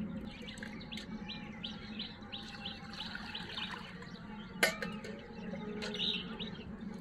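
Small birds chirping, a run of short high chirps at about three a second, over a faint steady low hum. A little past halfway comes one sharp metallic clink as a steel jug knocks against a steel bucket.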